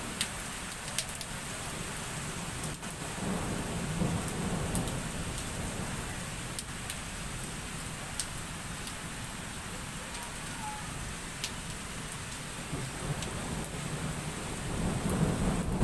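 Heavy rain pouring in a thunderstorm, with scattered sharp taps and low rumbles of thunder swelling a few seconds in and again near the end.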